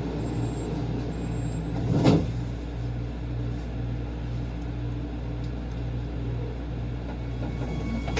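Street traffic with a large vehicle's engine running, a steady low hum that pulses about twice a second. About two seconds in there is one brief, loud burst.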